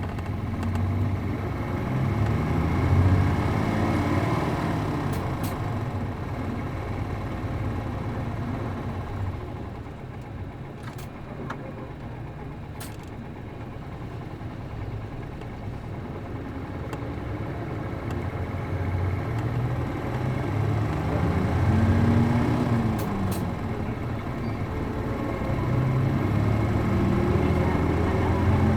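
Diesel bus with an MD92TJ engine and a five-speed manual gearbox, running on the road. The engine note rises as it pulls, then drops back as it shifts gear or eases off, several times over, with a few sharp clicks in between.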